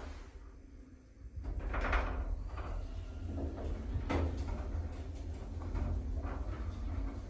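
Stannah passenger lift car running between floors with its doors shut: a steady low hum, a swelling whoosh about two seconds in, then several light knocks and clicks from the car and its door gear.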